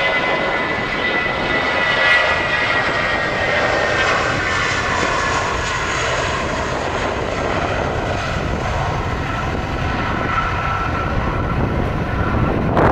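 Airliner engines running as the aircraft passes: a steady loud rush with a high whine that slowly falls in pitch.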